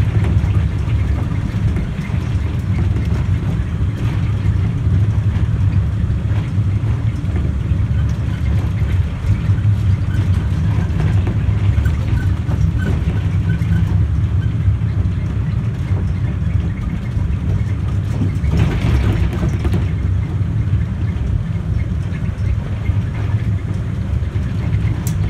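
Small electric passenger train running, a steady low rumble of wheels on the rails heard from inside the carriage. There is a brief louder rush of noise about two-thirds of the way through.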